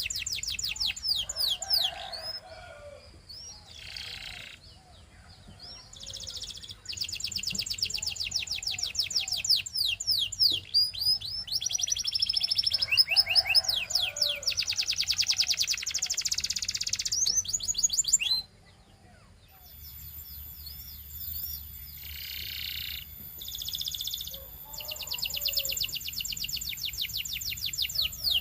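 Canary singing: fast rolling trills of rapidly repeated high notes in long phrases with short pauses. Near the end the song breaks off suddenly, then resumes more softly a second or so later.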